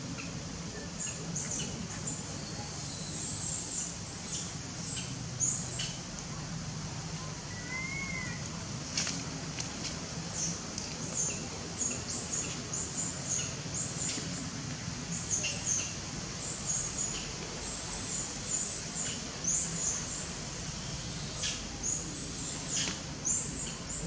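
Birds chirping: many short, high chirps in quick runs, with one lower whistled note about eight seconds in, over a steady background hiss.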